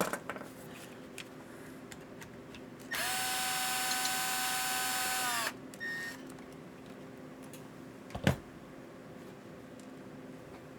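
A handheld power drill running steadily for about two and a half seconds, with a slight wind-up and wind-down as it starts and stops. A few light clicks come before it, and one sharp knock follows a few seconds later.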